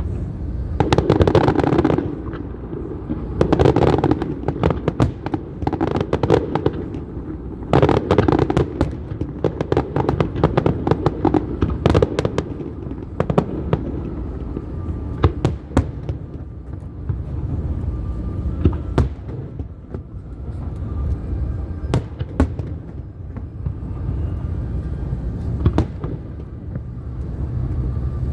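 Fireworks display: aerial shells bursting in heavy booms with sharp crackling reports, in dense clusters for about the first twelve seconds, then more scattered single bangs.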